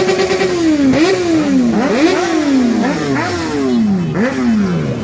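Motorcycle engine held at high revs for about half a second, then revved in a series of quick throttle blips, each pitch jumping up and then sliding back down as the revs die away.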